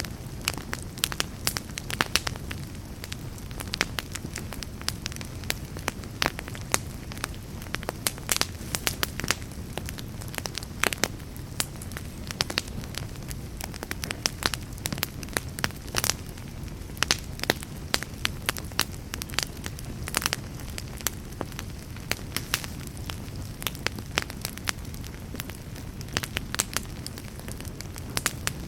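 Wood fire burning in a fireplace: logs crackling and popping at irregular moments over a steady low rumble of flames.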